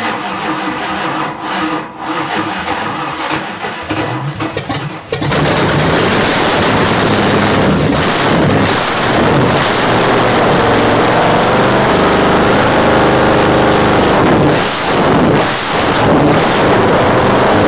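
Chrysler 360 small-block V8 with open headers, freshly installed, starting for the first time. It runs unevenly and sputters for about five seconds, then catches fully and runs loud and steady.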